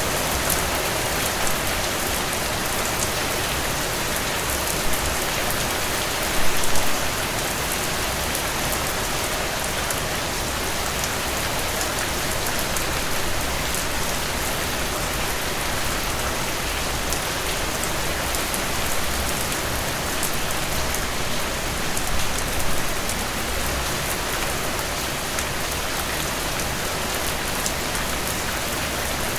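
Heavy rain falling steadily, a dense hiss of drops striking surfaces, with a few brief louder splashes or spatters about six and twenty-two seconds in.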